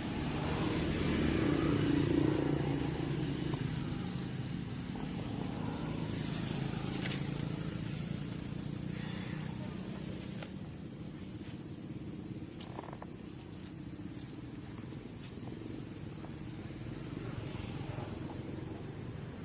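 A steady low engine rumble, loudest in the first few seconds and easing later, with a few faint clicks.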